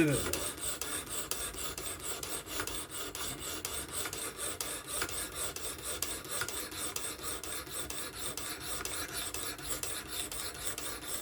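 Coarse 220-grit sharpening stone rasping along the edge of an S30V steel knife blade on a fixed-angle sharpener, in quick, even strokes, while the bevel is being set before moving to finer stones.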